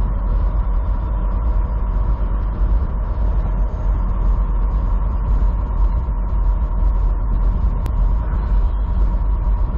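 Steady low drone of a semi truck's diesel engine heard from inside its cab, with a constant faint whine above it.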